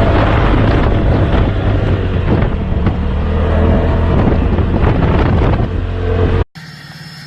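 Loud truck engine running, with wind buffeting the microphone. About six and a half seconds in it cuts off abruptly to a much quieter, low steady engine hum.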